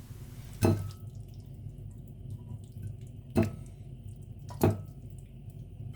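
Three sharp taps of a kitchen utensil against cookware as food is served out, each with a brief faint ring, over a low steady hum.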